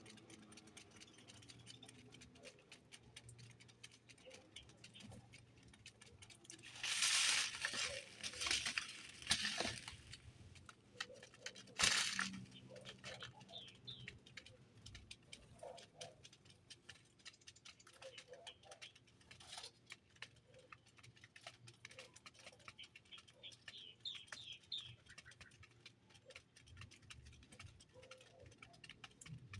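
Small birds moving about: a few loud wing flutters about seven to ten seconds in and again at twelve, with light tapping and faint chirps between.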